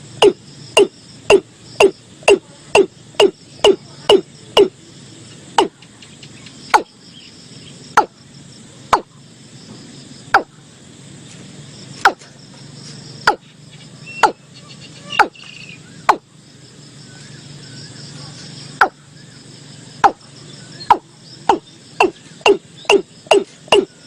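Watercock calling: a series of short, low, loud notes, about two a second at first, slowing to roughly one a second in the middle, then quickening again near the end. A faint steady insect chorus runs underneath.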